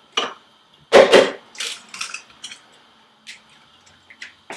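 Eggs being cracked against a bowl: a run of sharp taps and clicks of eggshell on the rim and the shell breaking, the loudest about a second in.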